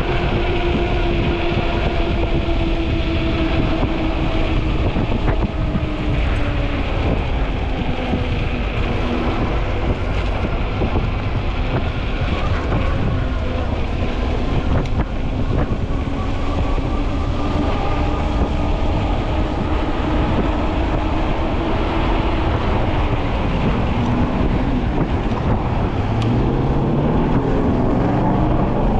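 Wind buffeting the microphone on a moving Ecotric 20-inch fat-tire e-bike, with the electric hub motor whining under it. The whine's pitch sinks slowly through most of the stretch, then climbs again near the end as the bike speeds up.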